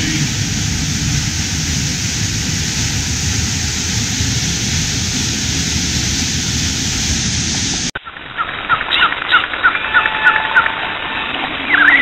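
A steady rushing noise with a low rumble that cuts off abruptly about eight seconds in, giving way to a songbird singing: a quick run of short, repeated chirps, then more calls near the end.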